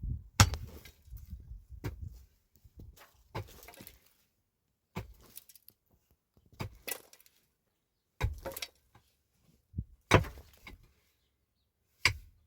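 A series of sharp knocks and clinks of hard objects striking or being set down: about nine separate strikes, irregularly spaced one to two seconds apart, with quiet between them.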